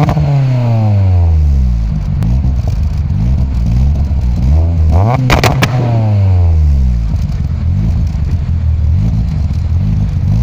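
Lada Kalina 8-valve hatchback's engine revving through a DKpro aftermarket exhaust. The revs fall back from a blip at the start, and about five seconds in a quick, sharp blip climbs and drops back toward idle.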